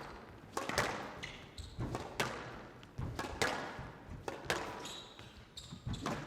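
Squash rally: the ball struck by rackets and smacking off the walls of a glass court, sharp knocks every half second to a second, each ringing on in a large hall.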